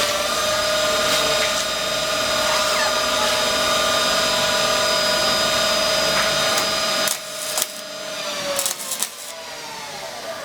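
Handheld power tool running steadily at a high pitch. It is switched off about seven seconds in and its pitch sags as it spins down, followed by a few clicks.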